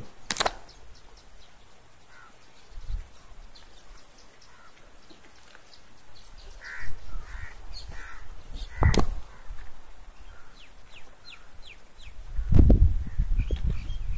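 Birds calling, with a few harsh calls in the middle and many short, high chirps. Two sharp knocks, one right at the start and one about nine seconds in, and a low rumble on the microphone near the end.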